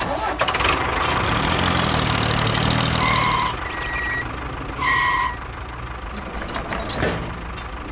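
A vehicle engine running steadily, with three short high beeps about three to five seconds in.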